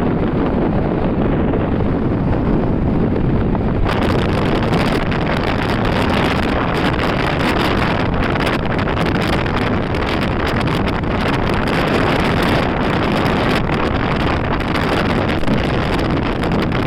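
Heavy wind noise on the microphone, a loud steady rush. About four seconds in it turns brighter and more gusty.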